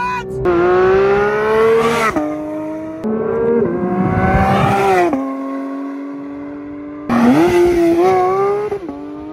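Porsche 992 GT3's naturally aspirated flat-six engine at full throttle, its pitch climbing in each gear and dropping back at the upshifts, several times over. A fresh hard pull starts about seven seconds in.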